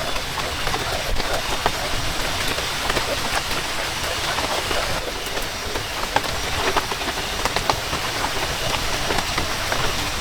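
Steady heavy rain, with many close drops striking sharply all through it.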